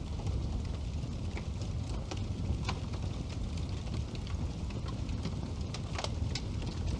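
Wood fire burning in a fireplace: a steady low rumble with scattered sharp crackles and pops, a louder pop about six seconds in.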